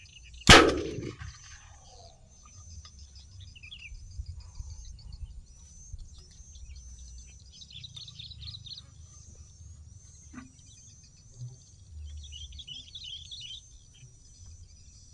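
A single loud bang about half a second in, with a short ringing tail, from a homemade bird-scaring bang device used to drive birds off a rice paddy. After it, birds chirp on and off over a steady high insect drone.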